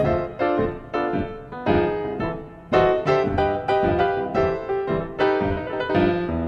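Background piano music: chords and notes struck one after another, each ringing and fading, at an even pace.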